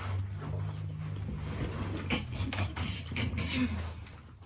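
Close-miked chewing and mouth sounds of someone eating, with wet clicks and smacks, over a steady low hum.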